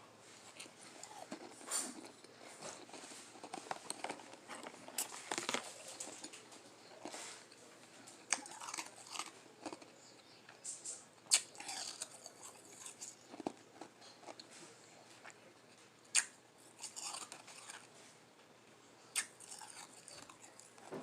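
Close-up crunching and chewing of lime-flavoured Igloo ice: irregular soft crunches and crackles, with a few sharper bites scattered through.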